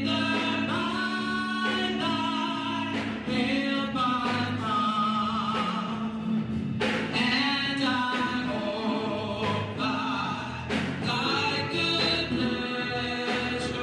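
Gospel-style church music: voices singing held, sustained lines over a steady low accompaniment.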